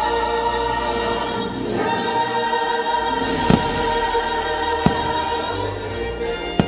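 Fireworks show soundtrack of choir singing in sustained chords, with two sharp firework bangs about three and a half and five seconds in.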